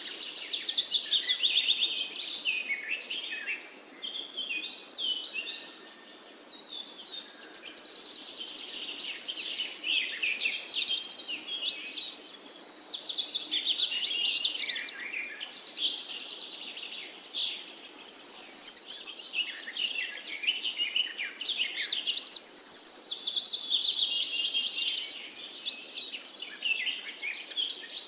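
Birdsong from several birds at once: a dense chorus of overlapping chirps, trills and quick rising and falling whistles, swelling and fading in waves.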